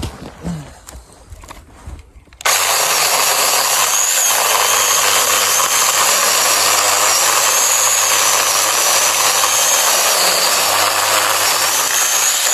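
8-inch mini cordless chainsaw kicks on about two seconds in and runs steadily with a high whine, sawing into the trunk of a large dead red oak to make the undercut. A few light knocks come before it.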